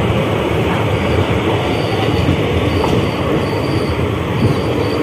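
Ganga Satluj Express passenger train running through a station without stopping, heard from inside the coach: a loud, steady rumble and rattle of the wheels on the track. From about two seconds in, a faint high squeal comes and goes about once a second.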